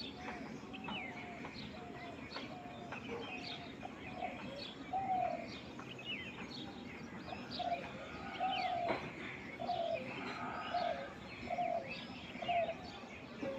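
Laughing dove cooing: a run of short, soft, low coos, about one a second, getting louder about halfway through. Quick high chirps of small birds sound throughout.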